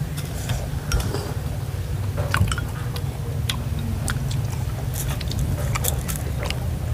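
A person eating: chewing, with scattered small clicks, over a steady low hum.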